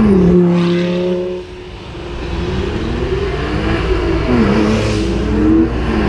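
Lamborghini Gallardo's V10 at full throttle passing close, its note dropping in pitch as it goes by and fading about a second and a half in. Then the next supercar engines build up under hard acceleration, the revs climbing and dropping through gear changes.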